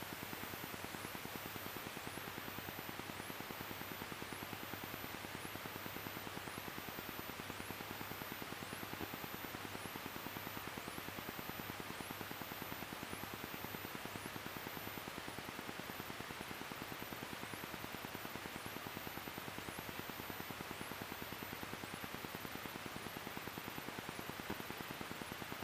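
Steady, faint static hiss with a fine, fast buzzing texture and a faint high chirp about once a second.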